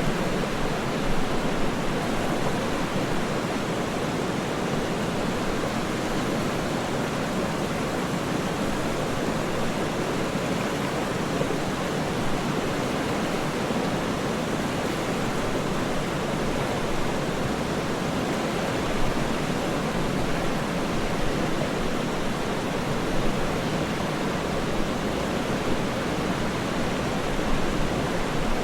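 Waterfall's steady rush of falling water, an even, unbroken noise with slight swells.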